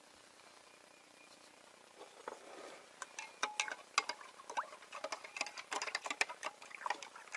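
Baking soda reacting with drained car-battery acid in a container, fizzing with an irregular run of crackles and pops as the acid is neutralized. It starts about two seconds in with a soft rush, and the crackling grows denser after that.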